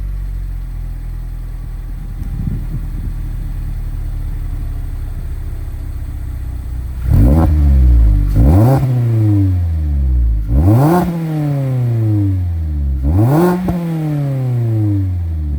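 2024 Mazda MX-5's four-cylinder engine through an HKS Legamax Premium aftermarket exhaust, idling steadily, then revved four times in quick blips about halfway through, each rev rising sharply and falling back to idle.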